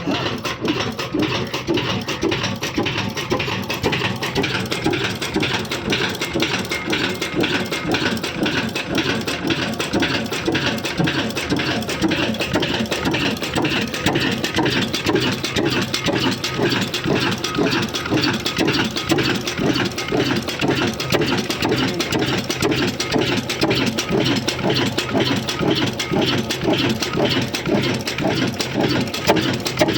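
Old Hornsby stationary diesel engine that drives a flour mill (atta chakki), running steadily with a rapid, even beat.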